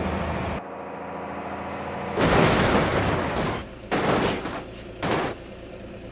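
Truck-like sounds: a steady engine hum cuts off suddenly under a second in. Then come four loud hissing bursts, the first over a second long and the rest shorter.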